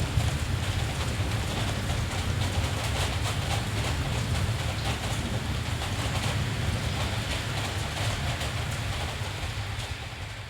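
Steady rain over a city with a continuous deep rumble beneath it, fading down near the end.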